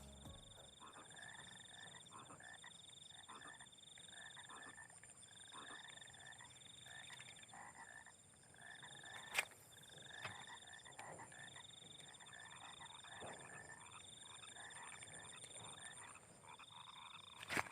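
Faint chorus of frogs croaking, short calls repeating about once a second over a steady high-pitched tone, with a single sharp click about nine seconds in.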